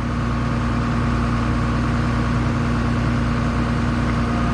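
Case 2144 combine's diesel engine running steadily while the machine is backed up to its header.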